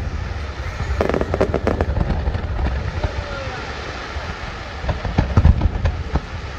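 Aerial fireworks display: shells bursting with sharp crackling over a continuous low rumble. A cluster of crackles comes about a second in, and the heaviest booms come about five seconds in.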